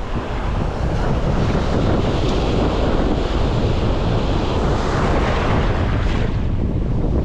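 Ocean surf breaking and washing on a beach, with heavy wind buffeting the microphone.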